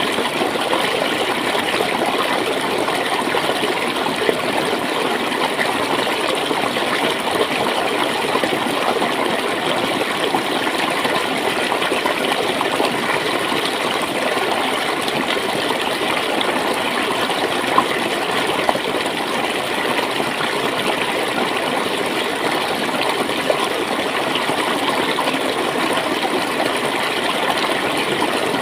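Steady gurgling and splashing of a clear stream of flowing water, with an occasional faint splash or tick.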